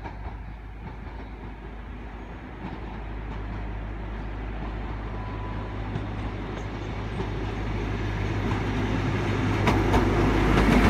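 InterCity 125 High Speed Train, led by Class 43 diesel power car 43094, running into the station. Its engine and wheels grow steadily louder as it approaches, with a few sharp clicks from the wheels near the end.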